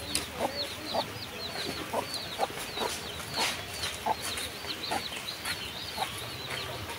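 Birds calling: short clucking calls about every half second, under many quick high chirps.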